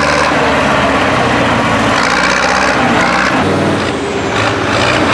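Tractor engine running loud and steady, its pitch dropping and its level dipping slightly about three and a half seconds in.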